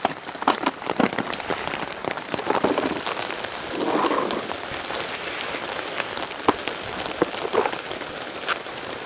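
Heavy rain falling steadily, with many individual drops ticking sharply and irregularly on a nearby surface.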